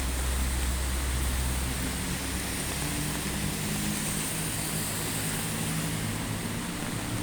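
Steady hiss of heavy rain in a city street, with a low rumble in the first few seconds and then the hum of a passing vehicle's engine from about two and a half seconds in.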